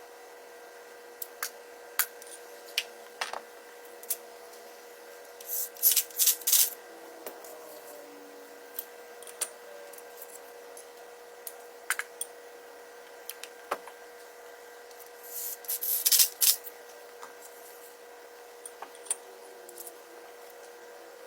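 Hand work on an engine block during piston and rod installation: scattered sharp metallic clicks and taps, with two short bursts of rasping, scraping noise about six and sixteen seconds in, over a steady hum.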